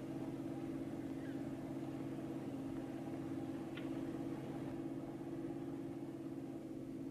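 Steady drone of a car engine heard from inside the moving car, with a faint click about four seconds in.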